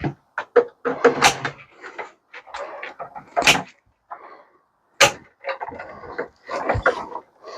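Metal parts of a microwave oven being pulled and handled during stripping for scrap: irregular rattling and scraping with three sharp metallic knocks, the loudest about one, three and a half, and five seconds in.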